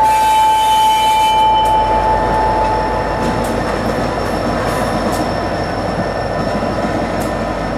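A GP40PH-2B diesel locomotive and tank cars roll slowly on curved track, with the diesel engine running and a steady rumble of wheels. A single high-pitched wheel squeal fades out about two to three seconds in.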